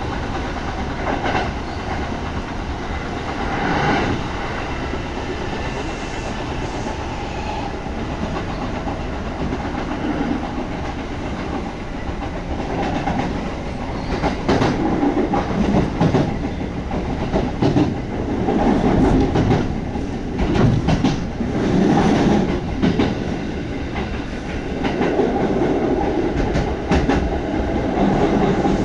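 Kintetsu 1200-series electric train heard from inside the car while running: a steady rumble of wheels on rails with clickety-clack over the rail joints. It gets louder and choppier from about halfway through.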